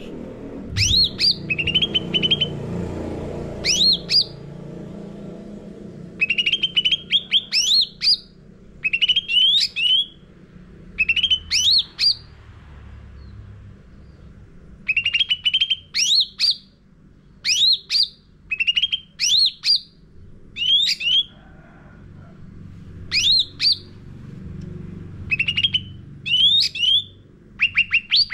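Cucak ranting singing in bursts: about a dozen short phrases, each made of sharp, high, downward-sweeping whistles followed by a quick run of lower chirping notes, with brief pauses between the phrases. A faint low rumble lies underneath, most noticeable at the start.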